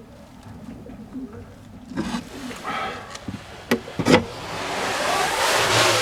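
Fantail doves cooing softly, with two sharp knocks about four seconds in. A rushing noise builds over the last second or two.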